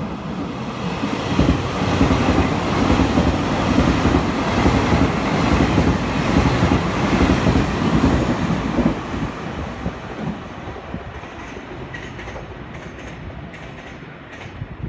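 Puyuma (TEMU2000) tilting electric express train running through the station at speed without stopping. Its wheel and running noise builds, is loudest as the cars sweep past the platform, then fades as the train pulls away, with a few wheel clicks over rail joints near the end.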